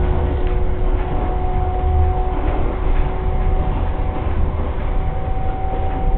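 Running noise of a 300 series Shinkansen motor car heard inside the passenger cabin: a steady low rumble with a steady hum over it.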